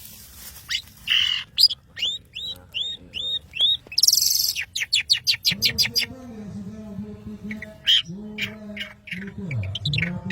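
Long-tailed shrike (cendet) singing vigorously. It gives a run of sharp high notes that each hook downward, a harsh scratchy burst about four seconds in, then a fast chattering run. From about halfway a lower voice-like sound sits beneath the bird's continued high calls.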